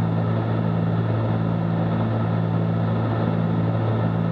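Cessna 310Q twin piston engines and propellers droning steadily in cruise, heard inside the cockpit as an unchanging low hum.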